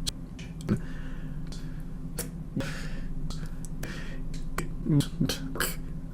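A man's breathing and mouth noises close to a microphone: a few breaths broken up by many sharp, short clicks and smacks, over a steady low hum.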